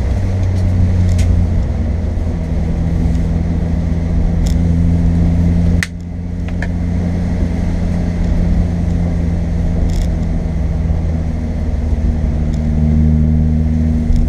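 Car engine pulling steadily, heard from inside the cabin along with road noise. The sound drops suddenly about six seconds in, then builds back up.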